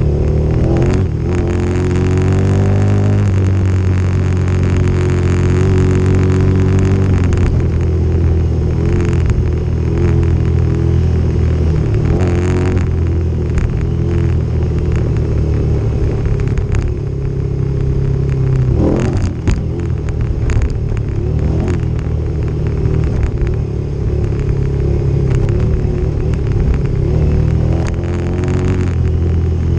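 Motorcycle engine running on a dirt trail, its pitch rising and falling with throttle and gear changes, with occasional knocks and rattles over the ground.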